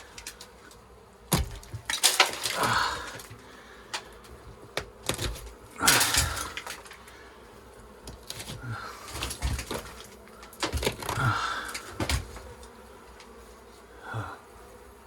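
Old beeswax comb being broken up and torn out: irregular bursts of cracking and crunching every few seconds.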